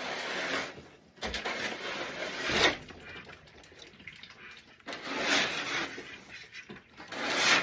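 Water running or splashing in four bursts of a second or so each, with short gaps between them.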